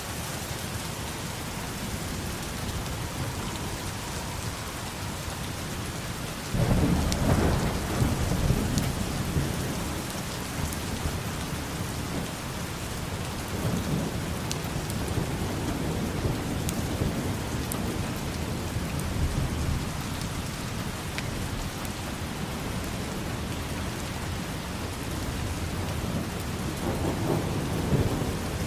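Steady rain falling, with thunder: a sudden low rumble about six seconds in that rolls on and fades over several seconds, and fainter rumbles later, one near the end.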